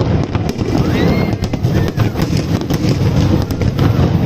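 New Year fireworks going off in rapid pops and bangs over a constant rumble, with a whistle rising briefly about a second in.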